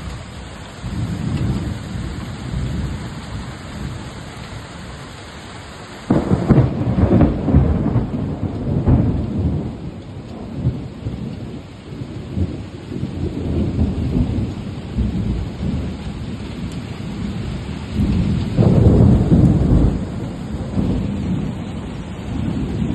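Rain falling steadily in a forest, under a loud, uneven low rumble that jumps up about a quarter of the way in and swells again near the end.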